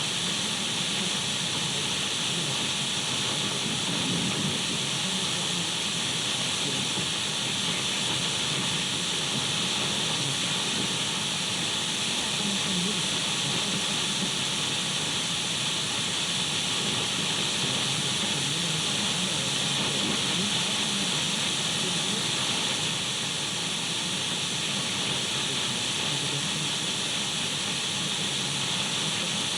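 Radio static: a steady, unbroken hiss of an untuned radio, strongest in the upper treble, with faint steady tones running through it.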